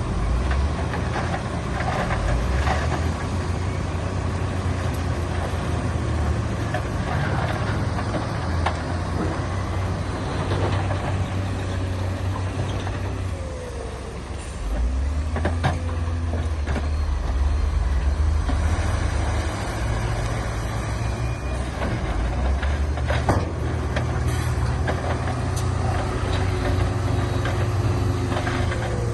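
Heavy diesel earthmoving machinery running, a deep engine drone that eases off briefly about halfway through and then picks up again, with a few sharp metallic clanks.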